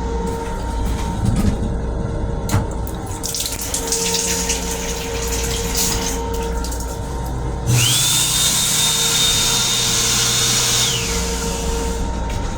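M7 railcar restroom toilet flushing: a loud rush with a high whine that rises, holds for about three seconds and falls away, over the low rumble of the moving train. A shorter hiss comes a few seconds before the flush.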